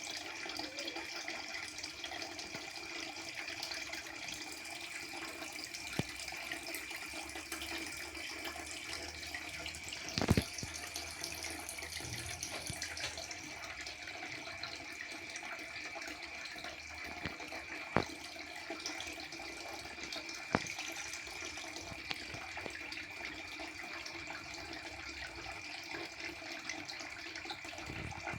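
Steady trickling and splashing of aquarium water circulating, with a faint constant high whine behind it. Four sharp clicks cut through, the loudest about ten seconds in and again near eighteen seconds.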